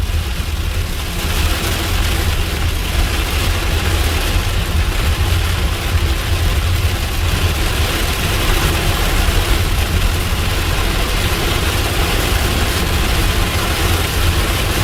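A car driving through a heavy thunderstorm, heard from inside the cabin: a steady low rumble of road and engine under an even rushing hiss of rain on the car, which grows louder about a second in.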